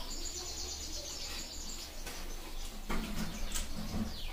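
A bird chirps in a fast, high trill for about the first two seconds. Later come a few soft, short sounds of rice being mixed by hand and eaten.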